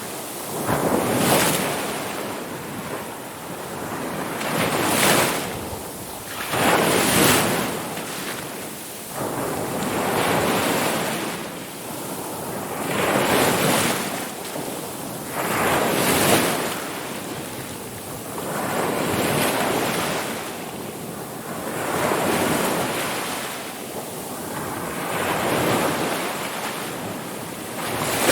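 Ocean waves breaking and washing up the shore, one surge of surf every few seconds, each swelling and then falling away.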